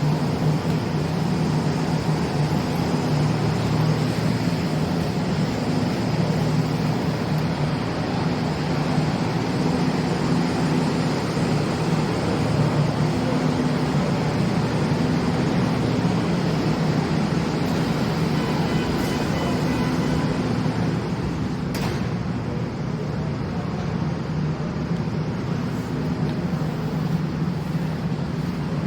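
Seoul Subway Line 9 train at the underground platform: a steady rumble with a low hum, plus a single sharp click about three-quarters of the way through.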